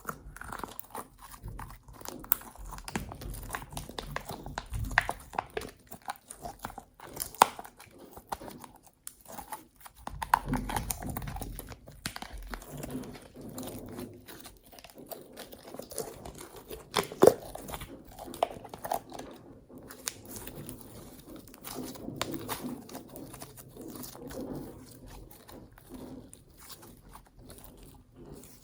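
Slime being squished, stretched and kneaded by hand: irregular wet crackles, clicks and squelches, with a few sharper pops, the loudest about 17 seconds in.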